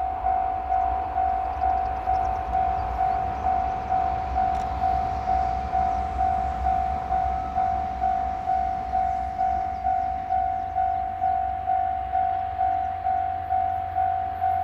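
Level crossing warning bell ringing in steady, evenly repeated dings, a little over two a second, each dying away before the next. Under it is the low rumble of a passing train, the HB-E300 hybrid railcar.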